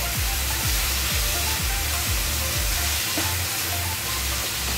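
Chicken and vegetable stir-fry sizzling in a hot pan as it is stirred, under background music with a steady low beat.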